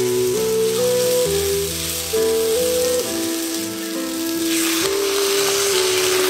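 Sliced onions, green chilies and red spice paste sizzling in a hot wok as they are stirred with a spatula, over a simple background melody. About four and a half seconds in, water is poured into the hot pan and the sizzling surges louder.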